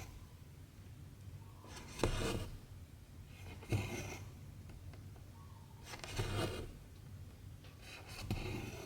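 Hand cross-stitching: the needle pokes through the fabric and the cotton thread is drawn through with a brief rasping swish. This happens four times, about every two seconds.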